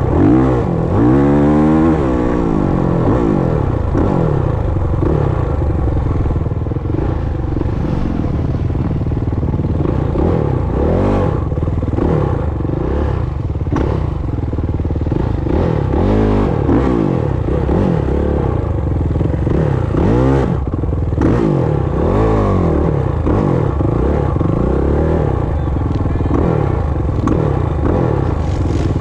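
Dirt bike engine being ridden hard, its pitch climbing and dropping every second or two as the throttle is opened and closed through the gears, with rattling clatter from the bike.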